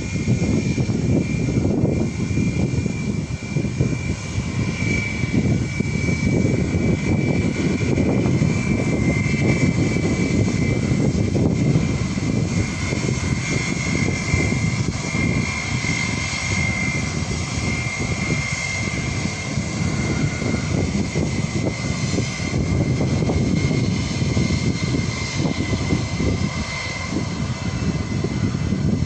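Airliner's engines running steadily at an airport: a deep rumble with a high, steady whine on top that sinks slightly in pitch.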